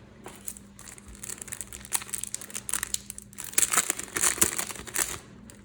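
Foil trading-card packet crinkling and crackling as it is torn open and handled, growing louder and busiest toward the end before stopping.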